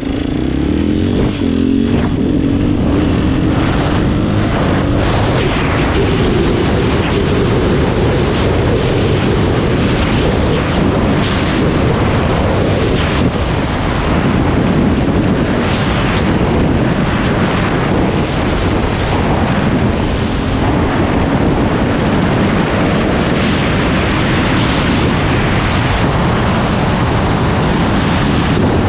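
KTM 500 EXC single-cylinder four-stroke engine running on the move, mostly buried under loud, steady wind rush on the microphone.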